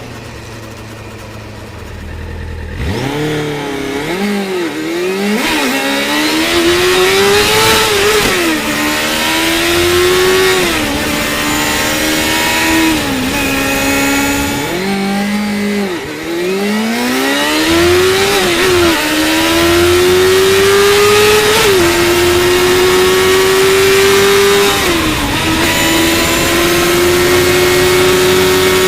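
Yamaha FZ6's 600 cc inline-four engine under hard acceleration on the road. About three seconds in it revs up sharply and pulls through several gears, its pitch rising in each and dropping at every upshift. It eases off around halfway, pulls through the gears again, then holds a steady high note near the end.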